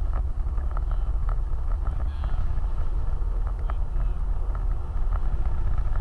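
A vehicle driving off-road: a steady low rumble with scattered short knocks and rattles throughout.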